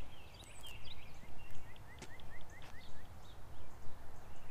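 Wild birds chirping and singing. About a second in, one bird gives a run of about eight short, evenly spaced notes. A low outdoor rumble runs underneath.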